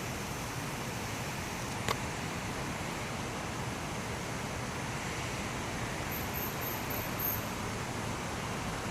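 Steady outdoor background hiss during a lightning storm, with one sharp click about two seconds in.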